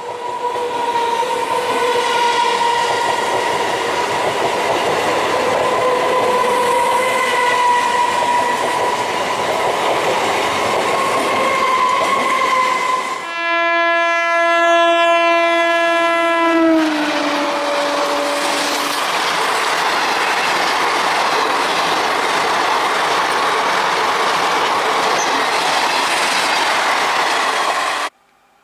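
Electric train passing close by at speed, sounding its horn: a horn sounds over the running noise from the start, then a louder horn blast begins about 13 seconds in and drops in pitch as the train goes past. The wheels' running noise on the rails follows, and the sound cuts off suddenly near the end.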